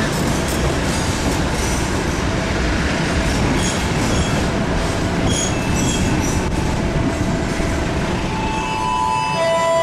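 Passenger train running on the rails with a steady rumble, with short high-pitched squeals from the wheels at several points. Near the end a melody of steady tones starts up.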